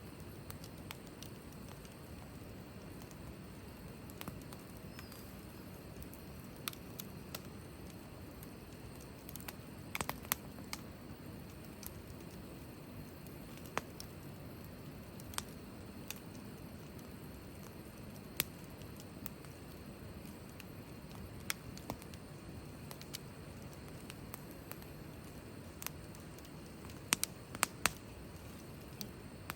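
Wood fire burning in a fire pit, crackling with scattered sharp pops over a steady low background; a quick run of pops near the end.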